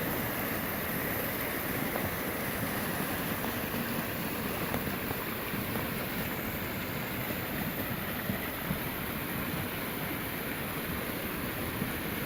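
Flash floodwater rushing steadily down a normally dry desert wash after a cloudburst, a continuous even rush of muddy water.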